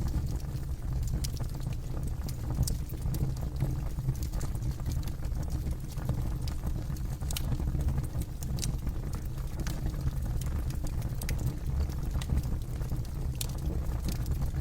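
Campfire burning, wood crackling and popping in irregular sharp snaps over a steady low rumble.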